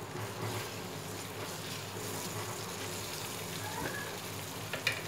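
Eggs and tomato frying in oil in a pan, a steady sizzle, while being stirred with a spatula; a light tick near the end.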